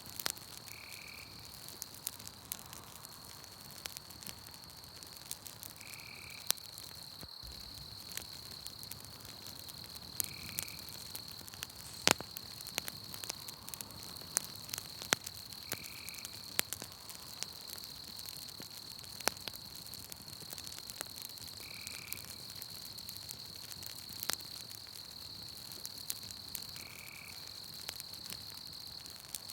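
Campfire crackling with sharp, irregular pops, over a night-forest background of a steady high trill and a short high call that repeats about every five seconds.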